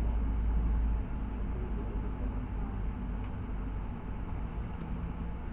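Cabin noise of a LiAZ 6213.65 articulated diesel city bus on the move: a steady low engine and road rumble whose deepest part drops away about a second in.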